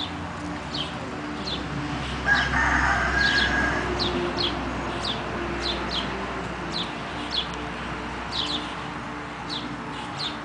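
A large fowl crows loudly once, about two seconds in, for about a second and a half. Small bird chirps repeat throughout, short and high, each falling in pitch.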